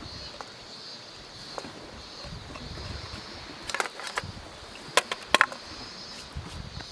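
Insects chirring steadily in a high, pulsing band, with a quick cluster of sharp clicks and ticks a little past the middle.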